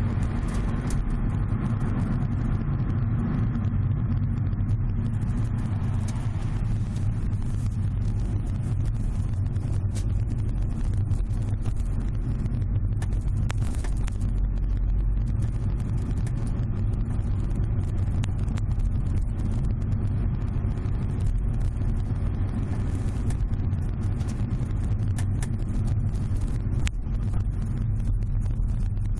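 Subaru Legacy BH5 wagon's cabin heard while driving: steady road rumble with repeated sharp crackling clicks from the rear hatch and cargo area. This is a snapping noise whose cause has not yet been found, even with the hatch and cargo trim removed.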